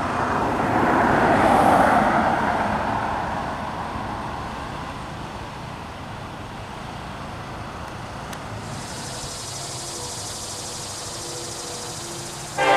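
A road vehicle passes by, its tyre and engine noise swelling about a second or two in and then fading into steady background traffic noise. A high steady hiss joins about two-thirds of the way through.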